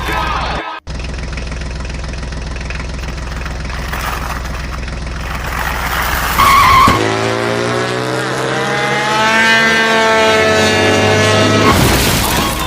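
Vehicle engine running steadily, then revving up in pitch about seven seconds in and holding at the higher pitch. A brief higher tone comes just before the rev.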